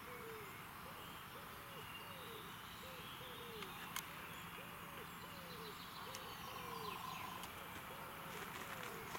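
Faint outdoor birdsong: a bird gives a low call over and over, about twice a second, each call rising and then falling in pitch, with fainter high chirps from other birds.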